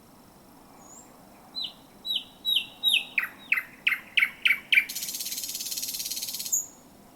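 Thrush nightingale singing one phrase: about ten sharp, falling whistled notes that speed up and grow louder, then a fast rattle lasting over a second, closed by a short high note.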